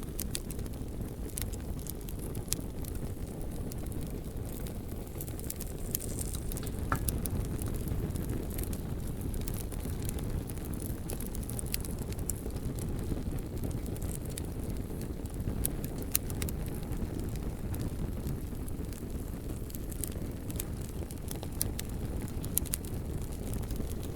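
Bonfire burning: a steady low rumble of flame with scattered sharp crackles and pops from the burning logs, and one short high whistle about seven seconds in.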